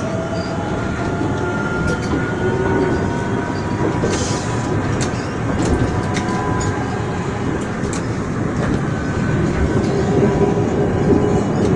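Airport Skytrain people mover running along its elevated guideway, heard from inside the car: a steady rumble with faint whining tones that drift slowly in pitch, and now and then a light click.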